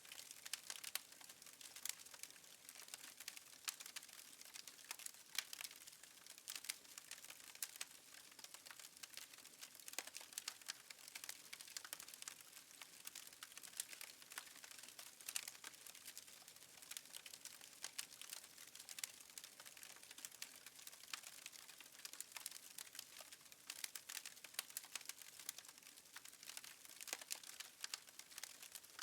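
Faint crackling of a wood fire: dense, irregular small pops and snaps with no let-up.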